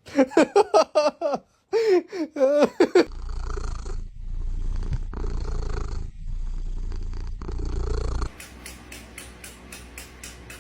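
A domestic cat purring: a steady low rumble that pauses briefly at each breath, then goes on more softly with a fast, even pulse near the end. It starts after a few seconds of a person laughing, which is the loudest sound.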